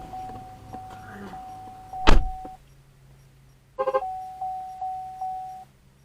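A car's electronic warning chime dinging in a quick steady series, with a loud thunk about two seconds in, after which the chime stops. A short squeak comes near four seconds, then the chime dings again for a second and a half and stops.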